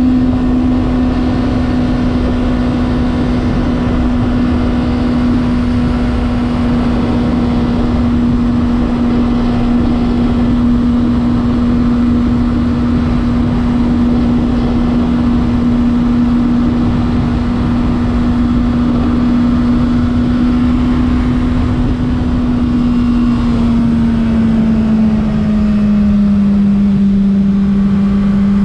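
Honda CBR600RR's inline-four engine holding a steady note at constant speed, dropping a little in pitch near the end as the bike eases off, with a heavy rush of wind noise underneath.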